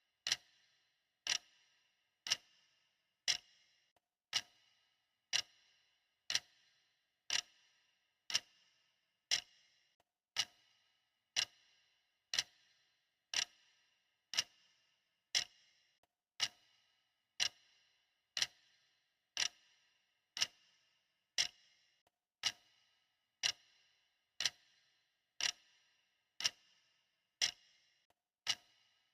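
A clock ticking steadily, one sharp tick a second, each with a short bright ring after it.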